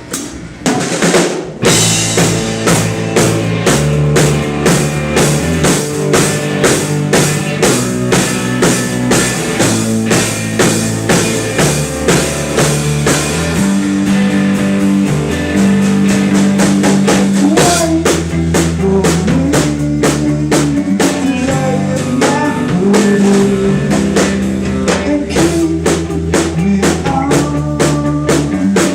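Live band playing a song, with a drum kit keeping a steady beat over bass and guitar. The band kicks in about a second and a half in.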